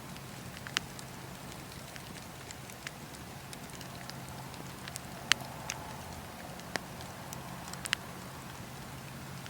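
Wood fire crackling in a fireplace: a steady hiss with a low rumble, broken by sharp pops and snaps, the loudest about five seconds in.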